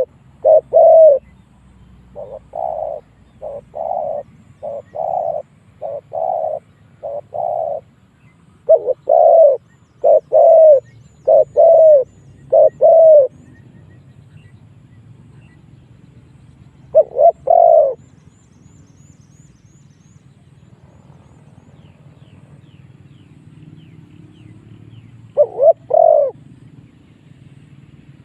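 Spotted dove cooing: a long run of low, repeated coo phrases, then two more phrases after long pauses. A lure call for drawing wild spotted doves in to fight.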